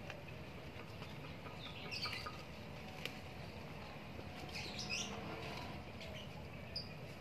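Small birds chirping a few times, faint, with a couple of brief chirp clusters around two seconds and near five seconds, over steady low background noise. Scattered light clicks and rustles, such as goats pulling at tree leaves.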